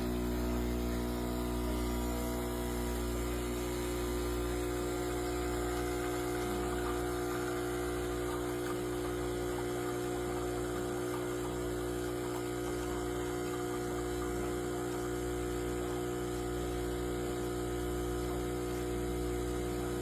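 CHULUX Slim espresso machine's 20-bar pump running with a steady buzzing hum, starting abruptly.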